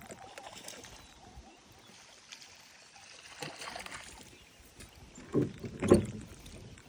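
Low water and handling noise around a plastic kayak, then two sharp thumps about five and a half and six seconds in, the second one the loudest.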